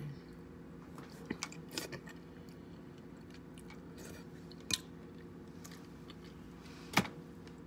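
Close-up eating of king crab legs: scattered cracks and snaps of crab shell with chewing and wet, saucy mouth sounds, the loudest crack about seven seconds in.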